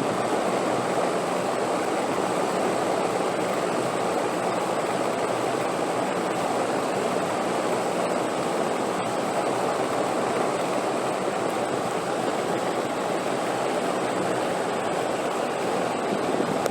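Wind blowing steadily: an even, unbroken rushing noise with no gusts or pauses.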